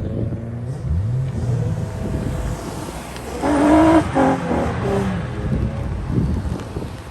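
Car engines revving and passing, the pitch rising about a second in. A loud pitched tone in a few short pieces comes about three and a half seconds in.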